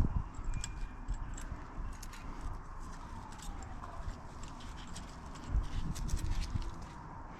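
Scattered light metallic clicks and clinks, with a few dull knocks, from small engine parts and tools being handled during a motorcycle engine teardown.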